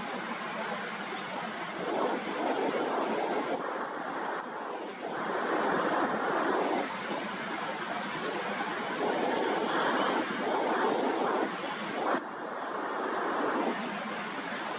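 Sea waves breaking and washing against the shore, swelling in surges every few seconds, with wind on the microphone.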